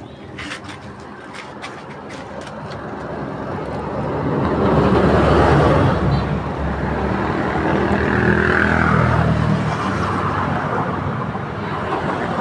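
A motor vehicle's engine running close by, growing louder over the first few seconds and then holding steady, with a few sharp clicks near the start.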